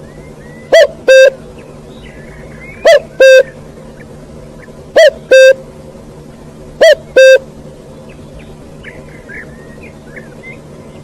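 A bird giving a loud, horn-like two-note call, a short clipped note followed at once by a longer steady one, repeated four times about every two seconds and then stopping. Faint small-bird chirps sound in the background.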